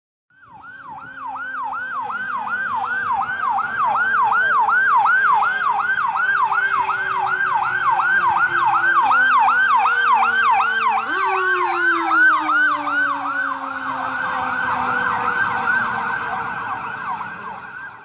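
A fire engine's electronic siren yelping about three times a second, mixed with the lower, slowly winding-down wail of a B&M Super Chief mechanical siren that is pushed back up about eleven seconds in. The sirens grow louder as the truck approaches, then fade as it moves away.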